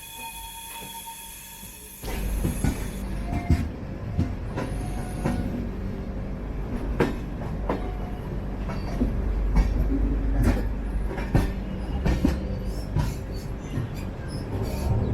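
LHB passenger coaches of an express train running on the track, heard from aboard: a steady rumble with irregular sharp clicks and clatter as the wheels pass over the rails. The sound is quieter for about the first two seconds, then abruptly gets much louder.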